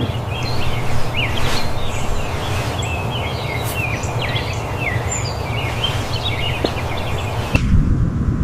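Birds chirping, with many short calls that slide up and down in pitch, over a steady outdoor hiss. Near the end this cuts off abruptly and a low rumble takes over.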